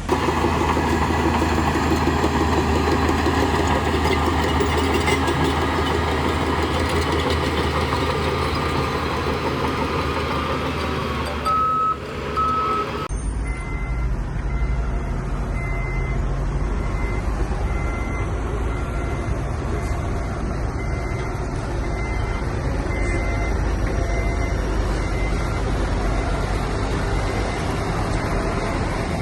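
Heavy earth-moving machinery's diesel engines running steadily. A reversing alarm beeps twice briefly, then, after an abrupt change partway through, beeps at a higher pitch off and on.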